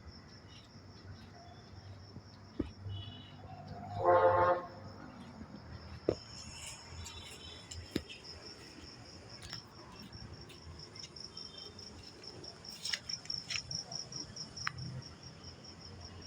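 Crickets chirring steadily, a continuous pulsing high trill. About four seconds in there is one short, loud pitched call, and a few faint clicks fall here and there.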